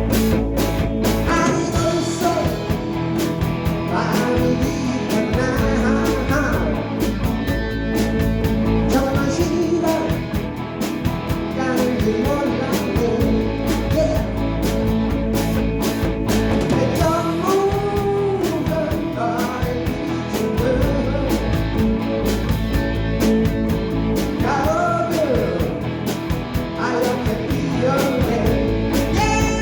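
Live rock band playing: a sung lead vocal over electric guitars, bass and drum kit.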